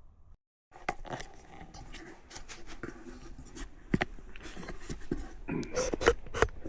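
Rustling with scattered sharp clicks and knocks, after a brief dropout to dead silence just after the start.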